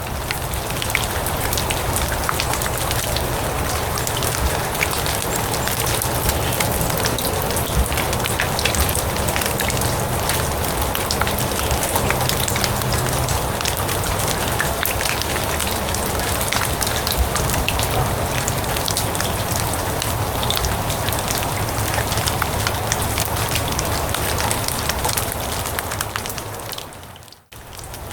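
Steady rain falling on grass and leaves: a dense patter of many small drops over a constant hiss. Near the end it briefly fades out and comes back in.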